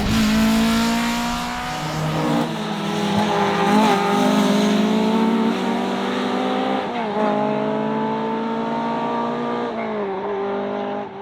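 Ford Escort RS1800 rally car's four-cylinder engine running hard at fairly steady revs, its pitch dipping briefly a few times.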